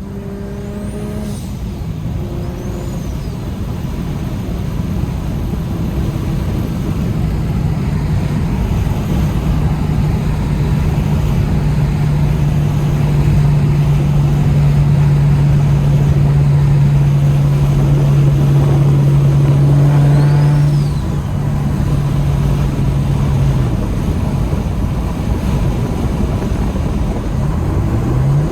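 BMW 335i's N54 inline-six with a DocRace single-turbo kit, heard from inside the cabin while driving: the engine note steps in pitch a couple of times near the start, then builds steadily in loudness for about twenty seconds and drops off about three-quarters of the way through as the throttle eases.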